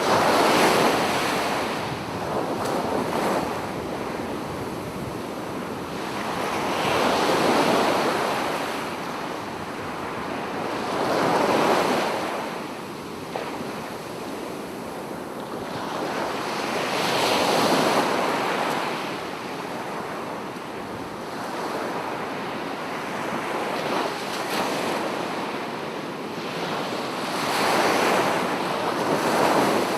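Sea waves breaking and washing up a beach: the surf swells and falls away about five times, each surge lasting a few seconds.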